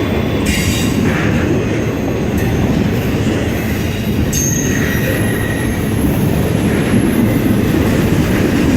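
Freight train passing close by, its wheels rolling over the rails in a steady, loud rumble, with faint high squealing tones from the wheels near the middle.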